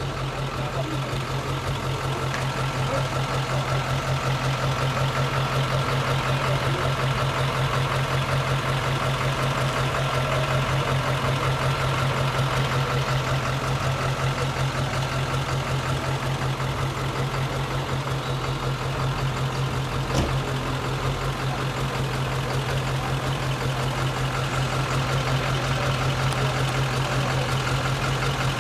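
Car engine idling steadily with an even, low pulsing note, and a single sharp click about twenty seconds in.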